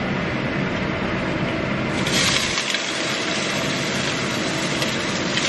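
Chopped vegetables and herbs sizzling in hot olive oil in a pot as they are dropped in by hand, the sizzle growing louder about two seconds in.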